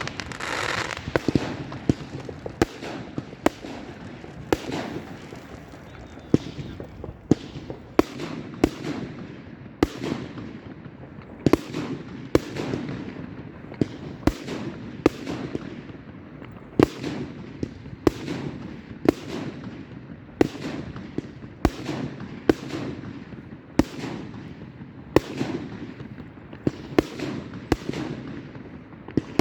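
Fireworks going off in a display: a steady run of sharp bangs about once a second, each trailing off in echo, over a low rumble and crackle.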